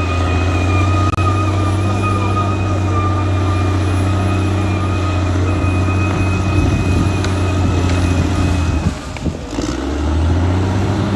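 Caterpillar D6R XL bulldozer's diesel engine running steadily under work, with a steady high whine over the engine note. The sound drops briefly about nine seconds in, then comes back up.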